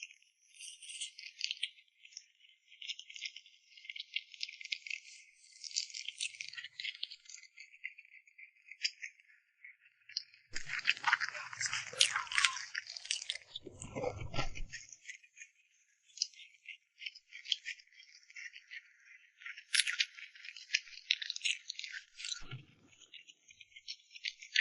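Close-miked eating sounds: dense crackly clicks and rustles, fuller and louder for a few seconds near the middle.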